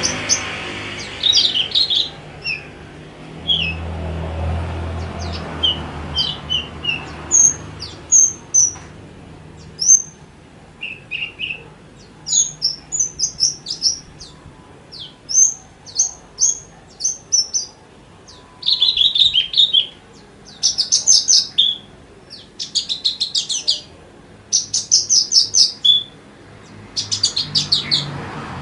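Horsfield's bush lark (branjangan) singing: a varied run of short, sharp high chirps and whistled notes with only brief pauses. In the second half the song turns into rapid buzzing trills repeated in bursts.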